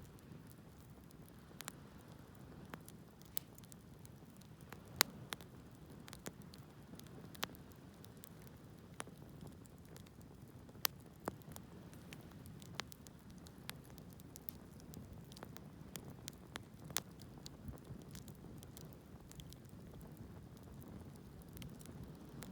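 Wood fire burning, with a low steady rush of flame under irregular sharp crackles and pops from the burning wood; two pops, about 5 and 11 seconds in, stand out louder than the rest.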